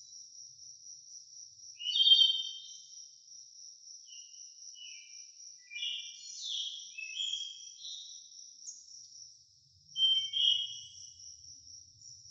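Crickets trilling steadily in an even, pulsing chorus, with short bird chirps over it: a loud call about two seconds in, a run of notes in the middle, and another loud call near the end.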